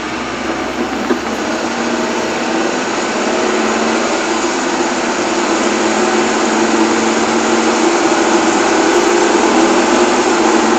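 Steady engine and road noise inside a motorhome's cab while it drives along, growing gradually louder.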